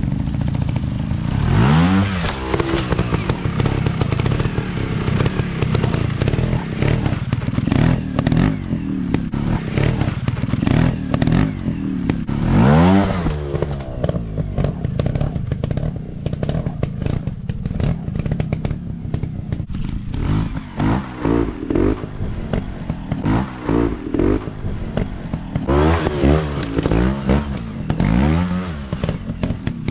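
Dirt bike engines running off-road, with the throttle opened hard several times: the engine pitch shoots up about two seconds in, again around halfway through, and in a cluster of quick revs near the end. Clattering and knocking runs under the engine throughout.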